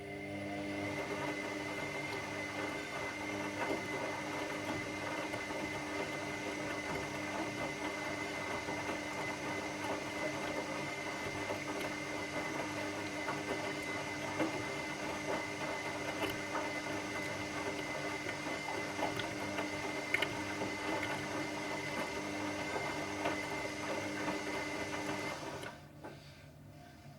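Washing machine motor running steadily, a mechanical hum with a higher steady tone over a noisy wash, starting suddenly and cutting off about 25 seconds in, as in a pause between phases of the wash cycle.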